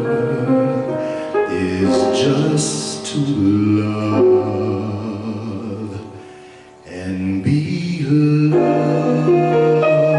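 Instrumental karaoke backing music in a slow ballad style with sustained chords. A bright shimmering flourish comes about two seconds in. Around the middle the music thins and fades almost out, then swells back in about seven seconds in.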